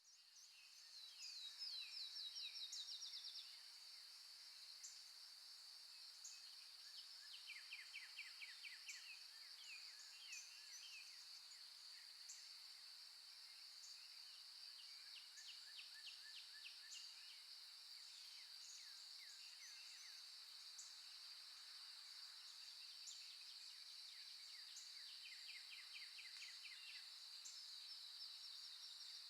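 Faint nature recording of songbirds singing fast trills of rapidly repeated short notes, loudest about a second in and again near the middle, over a steady high-pitched insect buzz.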